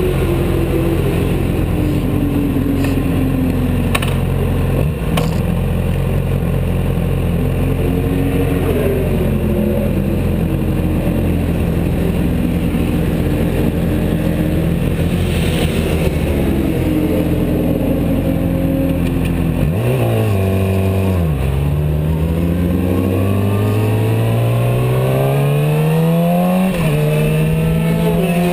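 Yamaha YZF-R6's inline-four engine idling steadily. About twenty seconds in the bike pulls away and the engine note climbs as it accelerates, drops once at an upshift near the end, then rises again.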